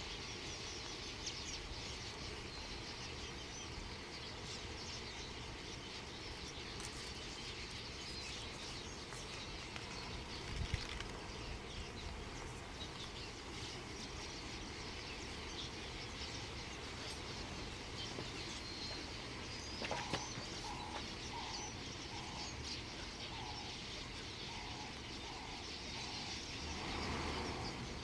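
A large flock of birds at a lake calling all at once: a dense, steady chatter of many overlapping high calls. In the second half a lower call repeats about once every second, and there is a single short low thump about eleven seconds in.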